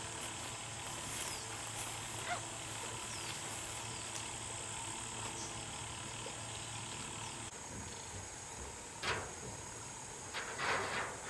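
Outdoor ambience: a steady high-pitched insect drone with a few short, falling chirps. Near the end come several brief rustling or scraping sounds.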